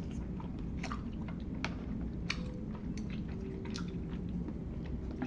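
Close-up chewing and slurping of oily noodles: a run of short wet smacks and clicks, roughly one to two a second.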